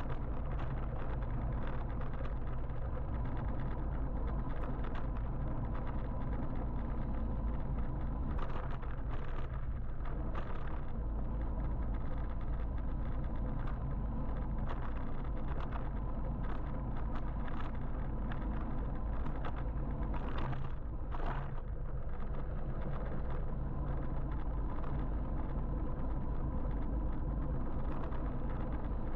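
Steady road and traffic noise heard while riding an electric motorbike: a low, even rumble, with brief louder swishes of passing traffic about a third of the way in and again around two-thirds in.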